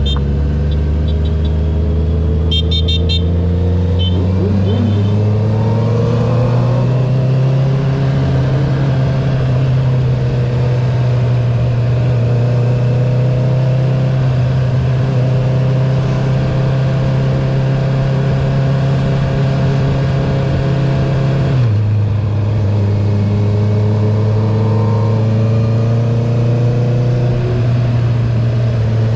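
2021 Honda CB650R's inline-four running through an Akrapovic titanium full exhaust with the dB killer removed, under way. The engine note climbs slowly for a few seconds, holds steady, then steps down suddenly about two-thirds of the way through and holds steady again.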